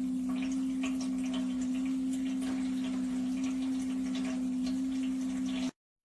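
Dog water fountain's pump running with a steady hum, and water trickling and splashing faintly over it. It cuts off suddenly shortly before the end.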